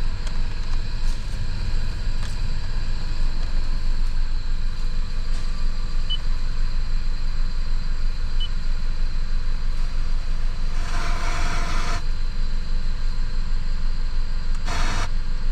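Toyota Tacoma's 3.5-litre V6 idling steadily, with a brief hissing rush about eleven seconds in and again near the end.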